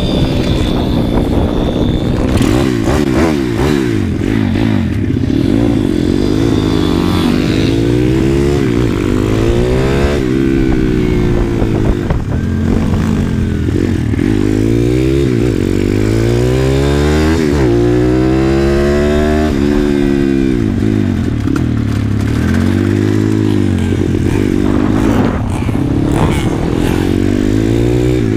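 Pit bike engine running hard on a track, its pitch climbing and dropping again every second or two as the rider accelerates and backs off.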